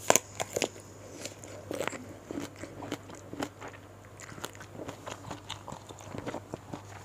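Close-miked eating: a person biting and chewing food eaten by hand, with irregular wet mouth clicks and small crunches, loudest in the first second.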